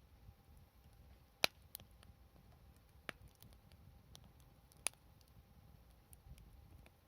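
Wood campfire burning quietly with sparse crackles: a few sharp pops, the loudest about a second and a half in and another just before five seconds.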